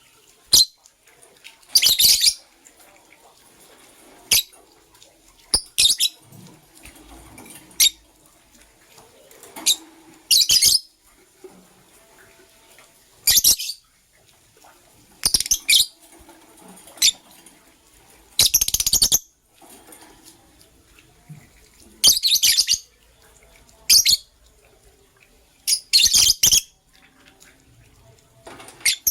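Lovebirds chirping: short, loud, high-pitched bursts of calls, about a dozen, coming every one to three seconds with quiet gaps between.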